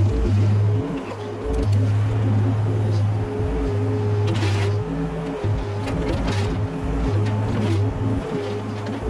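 Mini excavator's diesel engine running under changing hydraulic load as it works, its low drone swelling and dropping every second or so, with a few short scrapes and clanks from the bucket.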